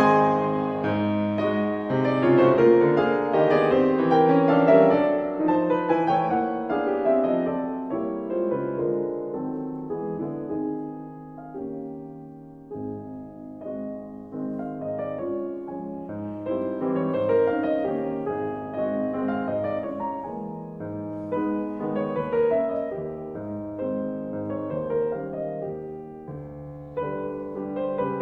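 Background piano music, a slow melody that grows softer about halfway through and then swells again.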